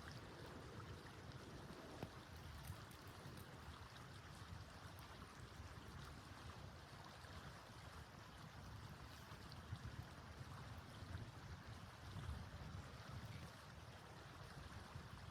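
Faint steady wind noise, with a low fluttering rumble on the microphone.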